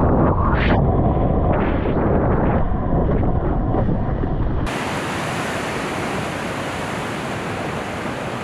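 Wind buffeting the microphone over rushing ocean water, a heavy rumble. A little past halfway it switches abruptly to an even, brighter hiss of wind and surf.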